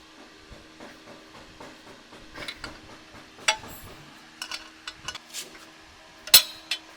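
Metal tools and parts clinking and knocking against each other in irregular strikes, the loudest about three and a half and six seconds in, over a faint steady hum.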